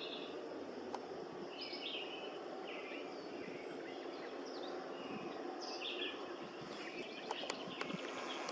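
Birds giving short chirping calls every second or so over a steady outdoor rush, with a few sharp clicks near the end.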